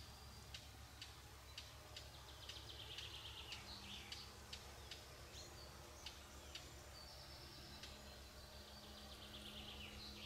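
Faint songbirds chirping and trilling, with a series of short sharp ticks in the first half, over a low steady hum. A faint steady drone comes in a few seconds in.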